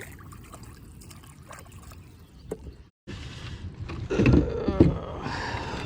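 Water trickling and splashing beside a kayak as a fish is handled, with a couple of sharp knocks about four seconds in.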